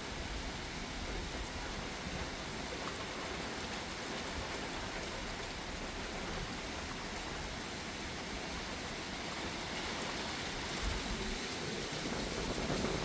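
Heavy rain falling steadily, with the patter of drops on nearby surfaces, swelling a little near the end.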